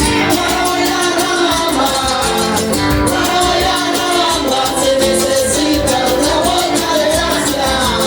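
Latin American music with a singer, guitar and a steady percussive beat.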